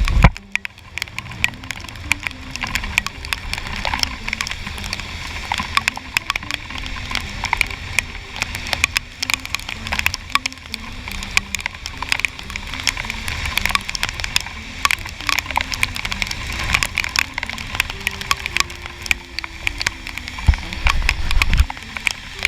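Rain drops crackling against a helmet-mounted action camera's housing while riding a scooter, over a low rumble of wind and road noise. A faint melody of stepped notes plays under it.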